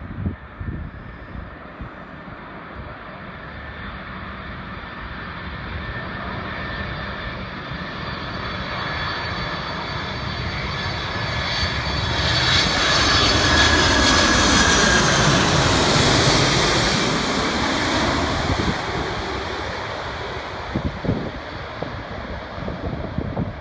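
Boeing 747-400ER airliner on landing approach passing close overhead: the whine and rumble of its four jet engines grow steadily louder, peak about two-thirds of the way through, then fade as it passes, with a falling pitch sweep as it goes by. Wind buffets the microphone near the start and the end.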